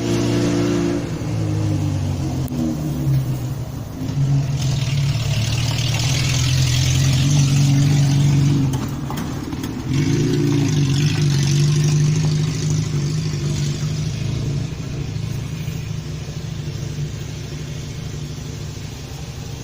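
An engine running, with a steady low hum that grows louder about four seconds in and again about ten seconds in. A hiss rises over it in the middle.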